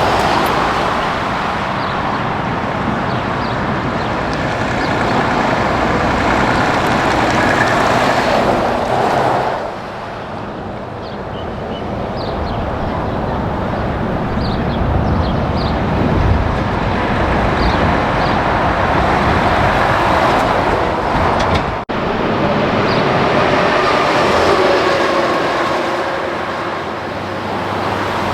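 Heavy trucks passing on a highway, engine and tyre noise swelling and fading: one passes and dies away about ten seconds in, and the next builds up after it. There is a very short break in the sound a little past twenty seconds.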